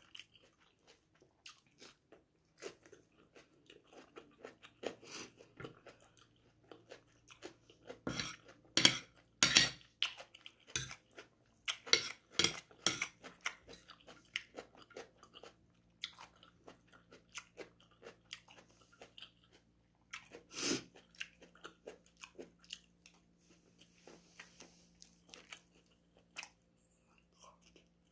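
Close-miked eating: a person chewing and crunching on raw cucumber and radish slices and rice. The crunches come as many short sharp snaps, loudest in a run about eight to thirteen seconds in and once more around twenty-one seconds.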